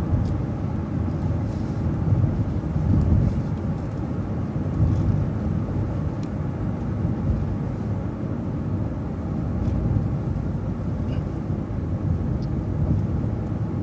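City transit bus driving along a road: a steady low rumble of engine and road noise.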